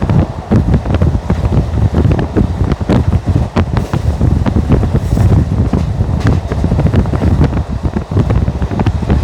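ICF passenger coach running at speed: a steady rumble of wheels on rail with dense, irregular clattering and rattling, and wind buffeting the microphone.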